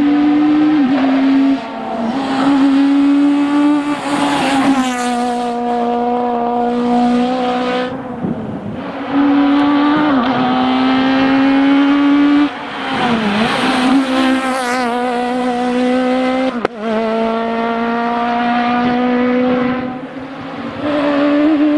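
Citroën Saxo Kit Car rally car's high-revving four-cylinder engine run hard at full throttle, held high in its rev range. The pitch drops briefly several times at gear changes and lift-offs, and there is one sharp crack about two-thirds of the way through.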